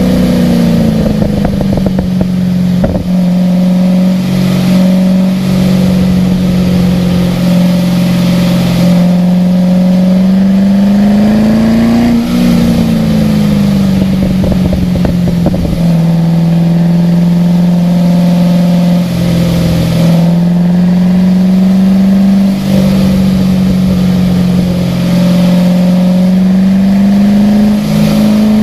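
A car engine running on board at lapping pace, its note mostly holding steady, climbing briefly and dropping back about twelve seconds in and again near the end, under a steady hiss.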